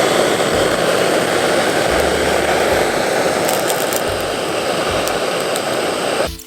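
A loud, steady rushing roar aimed at the fuel to get the fire going, which cuts off sharply near the end.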